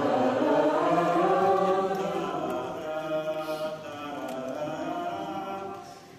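A group of voices singing an Orthodox church chant a cappella, one slow phrase with long held notes that softens and trails off near the end.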